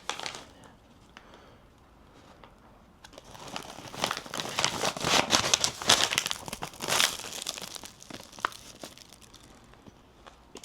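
Food wrapping crinkling and tearing as it is handled and opened. It is quiet at first, then comes in a dense crackly run a few seconds in, loudest just past the middle, before it dies down.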